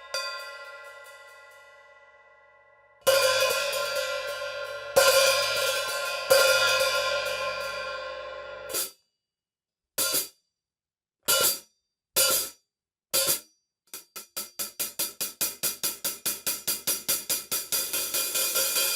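SABIAN 14-inch AAX X-Celerator hi-hats played with a stick. One stroke rings out, then three loud open strokes wash and are choked shut about nine seconds in. Four short open-and-closed hits follow, then a steady run of strokes at about four a second that grows louder.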